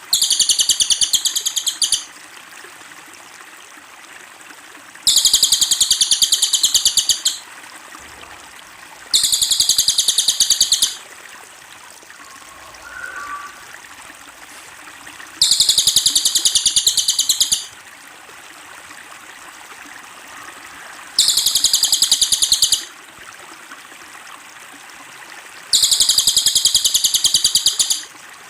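Cililin songbird singing a very rapid, high trill in repeated bursts of about two seconds, with pauses of a few seconds between them, over a faint steady hiss like running water.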